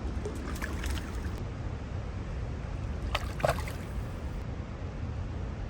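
Steady low rush of a mountain stream's flowing water, with a few faint short sounds about half a second in and again a little after three seconds.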